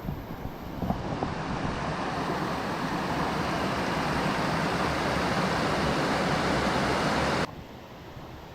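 Steady rushing roar of a tall waterfall, about 100 m high. It cuts off abruptly about seven and a half seconds in, leaving a quieter hiss.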